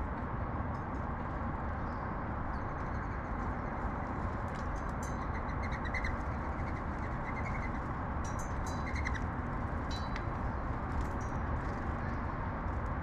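Sparrows chirping in short, scattered, high notes, busiest in the middle stretch, over a steady low urban background rumble.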